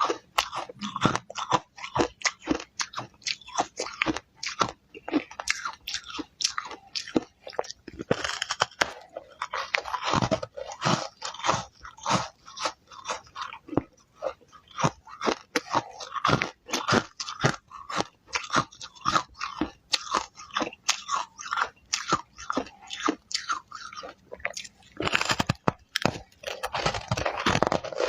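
Ice being bitten and chewed close to the microphone: a rapid run of crisp cracks and crunches, several a second, thickening into a denser stretch of continuous crunching near the end.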